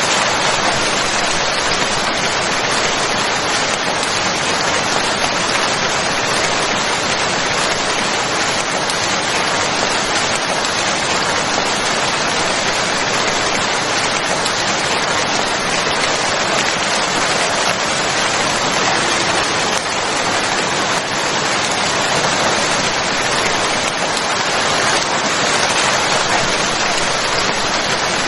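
Steady, even rain falling, a continuous hiss of rain with no change in intensity.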